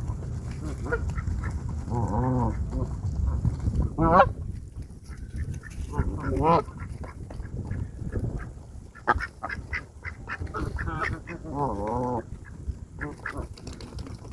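Waterfowl calling: four drawn-out honking calls of about half a second each, with a run of short, sharp calls in between.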